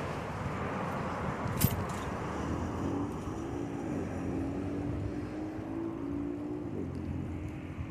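Steady wind and riding noise of a bicycle on the move, with one sharp click about a second and a half in. A low, wavering motor-vehicle hum comes and goes in the middle.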